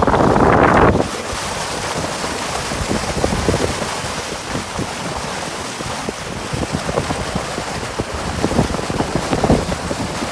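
Strong wind buffeting the microphone aboard a sailboat, with water rushing and splashing against the boat. The wind blast is loudest for about the first second, then drops suddenly to a lower, steady rush broken by many small splashes.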